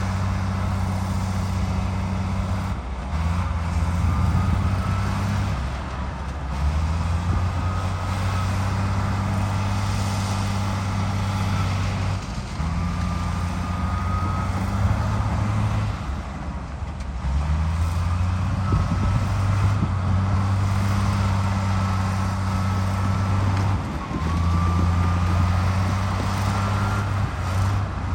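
Bulldozer's heavy diesel engine running under changing load, its low note shifting every few seconds as it works. A faint high whine rises briefly several times over it.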